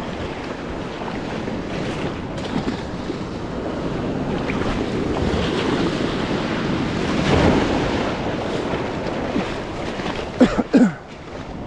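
Surf washing on the beach with wind on the microphone; the wash swells about seven seconds in. Near the end, two or three brief sharp sounds stand out above the surf.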